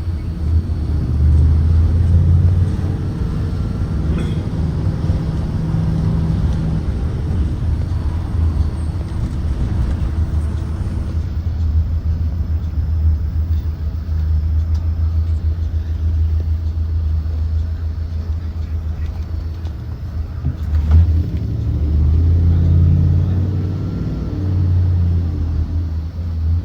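Blue Bird Vision propane school bus driving: a steady low engine and road rumble that swells and eases a few times, with a short knock about three-quarters of the way through.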